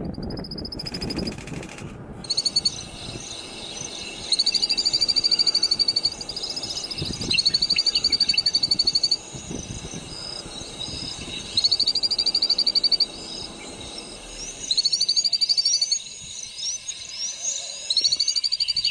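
A high, rapid pulsing trill from a calling animal, repeated in runs of one to two seconds about five times, with thin chirps above it.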